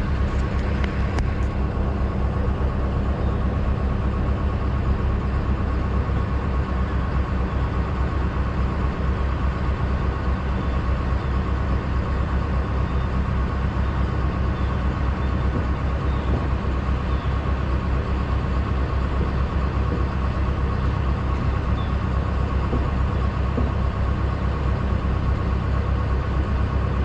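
Semi-truck diesel engine idling steadily, a low even drone heard from inside the cab, with a few light clicks about a second in.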